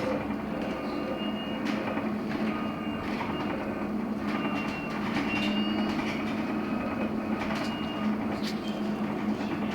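Cabin sound of a LiAZ-6274 electric bus under way: a steady hum from the electric drive and road, with frequent short rattles and clicks from the cabin.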